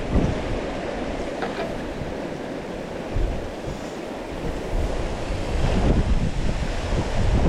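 Rushing river water, a steady wash of noise, with wind buffeting the microphone in uneven low rumbles.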